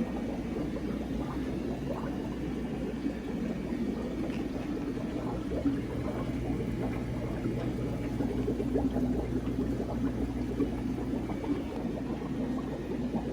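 Aquarium water bubbling and gurgling from tank filters and air pumps, with a steady low electrical hum from the pumps beneath.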